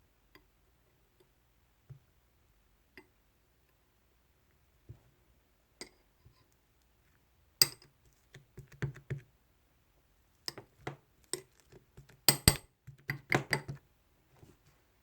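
Scattered light clicks and taps, then a busier run of sharp taps and clinks from about eight seconds in to near the end, like small hard objects being handled or knocked together.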